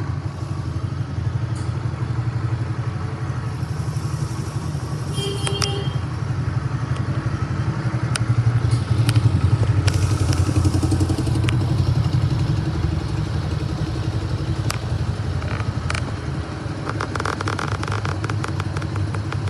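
Honda Benly CL90's small single-cylinder four-stroke engine idling steadily after being revved, with a few light clicks over the running.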